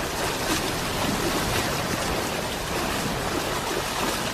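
Steady rushing of running water, heard in an otter recording.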